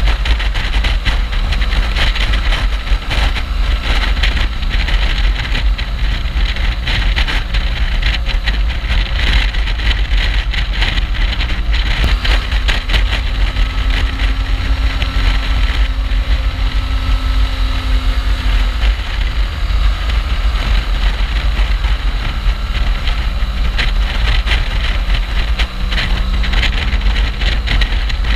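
Heavy wind noise on the microphone over a BMW R1200GS's flat-twin boxer engine while riding, steady and loud, with the engine note shifting about twelve seconds in.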